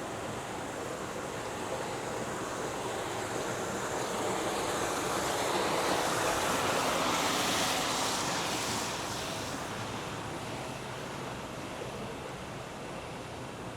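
Rushing noise that swells to a peak about halfway through, then fades away.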